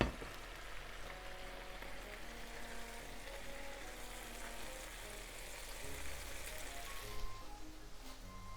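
Chicken thighs frying in a pan under parchment paper and a weight, an even sizzle, over light background music; the sizzle thins out about seven seconds in.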